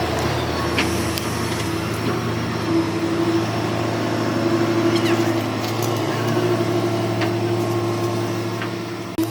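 Hyundai 210W wheeled excavator's diesel engine running steadily under work, with a wavering whine that comes and goes over the low drone.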